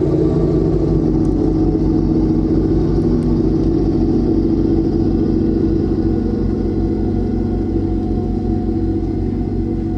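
John Deere X738 garden tractor's engine running at a steady speed, with an even low pulsing.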